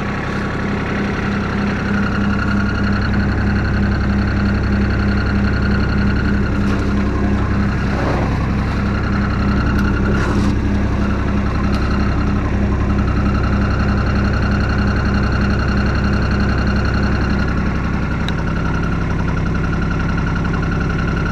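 Kubota RTV utility vehicle's engine running steadily under heavy load on a climb, with an even pulsing hum; it eases off slightly a little before the end.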